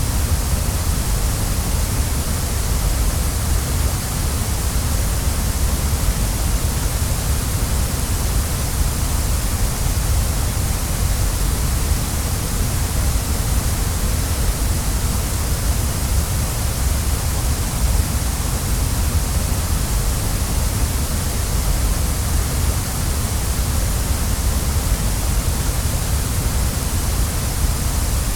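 Waterfall: a steady, unbroken rush of falling water, heavy in the deep bass with a bright hiss on top.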